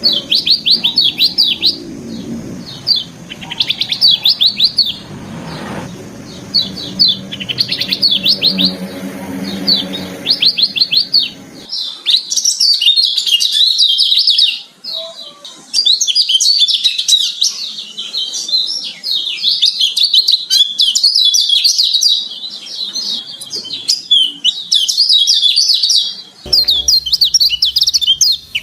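A kecial kuning, a white-eye, singing a fast, varied twittering song of high chirps and trills. It comes in short bursts over a low background rumble at first, then runs almost without a break from about twelve seconds in.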